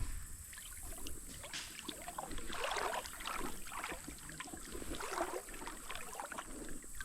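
Paddle strokes in creek water, splashing and dripping against a small boat in irregular bursts.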